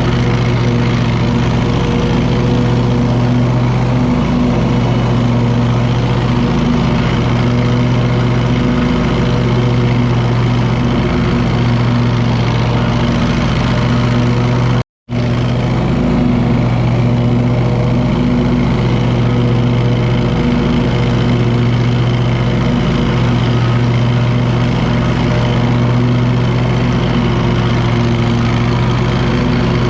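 Wright mower's engine running steadily at a constant pitch, cutting out to silence for an instant about halfway through.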